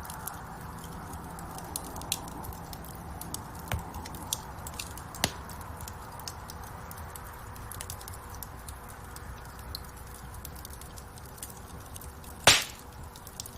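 Wood fire crackling in a fireplace: scattered sharp pops and snaps over a steady low rumble of burning, with one loud pop near the end.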